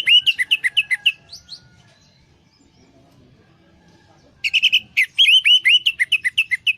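Orange-headed thrush (anis merah) singing in two loud runs of fast, varied whistled notes. The first run ends about a second and a half in; after a pause the second starts around four and a half seconds in and lasts to the end.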